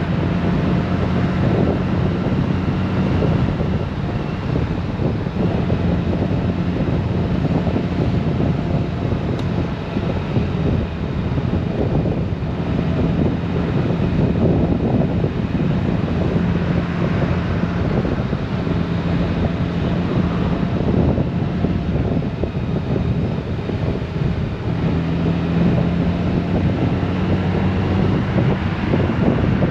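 Honda Gold Wing motorcycle cruising on the road: a steady engine hum under heavy wind rush across the microphone.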